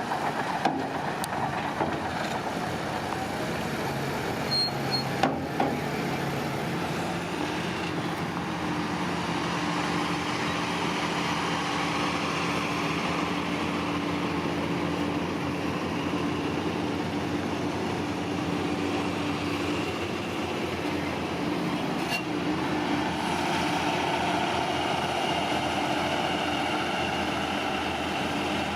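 Heavy construction machinery running steadily, a truck-type engine with a few short knocks in the first several seconds.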